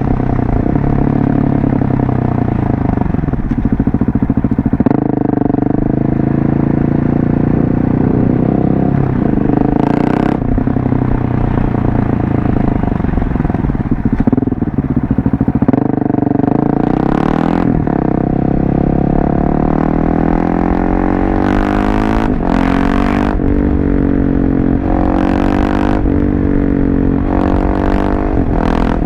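Husqvarna 701 Supermoto's single-cylinder engine through a LeoVince exhaust, riding along with the revs rising and falling as it pulls through the gears, then climbing slowly and steadily over the last ten seconds or so. Several short bursts of hiss come through in the second half.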